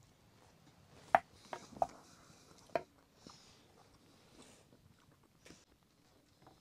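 A few sharp clicks and knocks, about four in two seconds, the first the loudest, followed by soft rustling.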